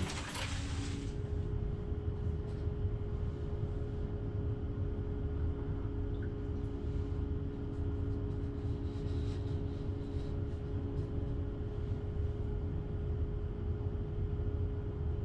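Steady low rumble and constant electrical hum inside an electric train's driver's cab, with a second hum tone that drops out near the end. A crackly hiss fades out about a second in, and a few faint ticks sound through the rest.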